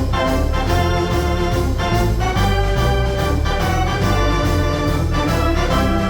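Decap 105T dance organ with a built-in Hammond L122 playing a tune: sustained organ melody and chords over a steadily repeating bass.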